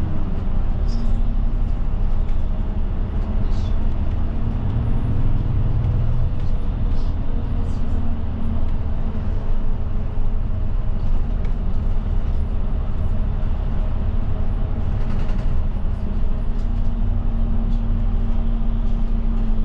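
Route bus running, heard from inside the passenger cabin: a steady low engine drone and road rumble, with small rattles and ticks.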